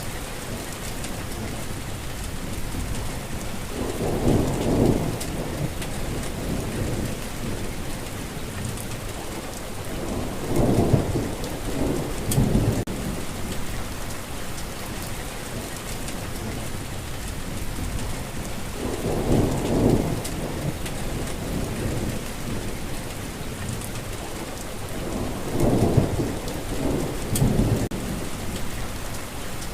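Steady heavy rainfall hissing, with four low rolls of thunder, each lasting a second or two.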